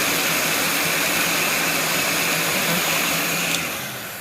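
Heat gun blowing hot air onto wiring harness sleeves, running steadily with a high whine. It is switched off with a click about three and a half seconds in and winds down.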